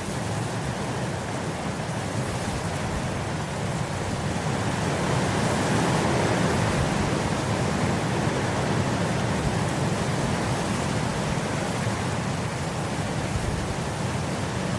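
Wind blowing through grass, a steady rushing that swells in a gust from about five seconds in and eases again.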